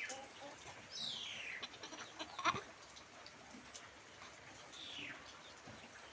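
A bird calling in the background: a high call that falls in pitch, heard about a second in and again near the end. There is also a brief sharp sound about two and a half seconds in.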